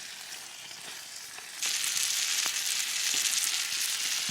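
Peppers and onions sizzling in a frying pan over a campfire, a steady hiss that becomes louder about one and a half seconds in.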